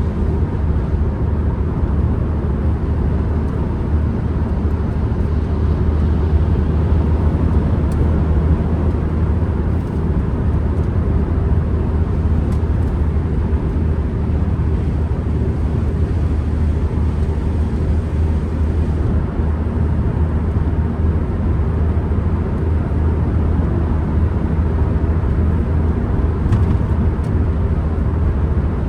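Ford Transit Connect van driving at a steady pace, heard from inside the cabin: a steady low drone of engine, tyre and wind noise with no clear revving or gear changes.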